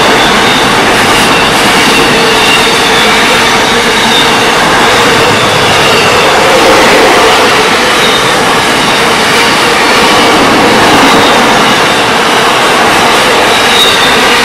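Container wagons of an Aurizon freight train passing close by at speed: a loud, steady rush and clatter of steel wheels on rail, with faint brief high squeals now and then.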